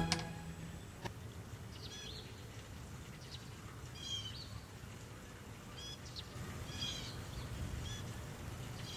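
Quiet outdoor ambience with a steady low rumble and a few birds chirping: short, high calls scattered every second or so. A faint click about a second in.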